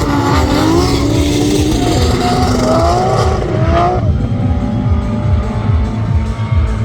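Motorcycle-engined autograss car at high revs, its engine pitch rising and falling through the gears, over background music with a steady beat. About four seconds in the engine drops away and the music carries on.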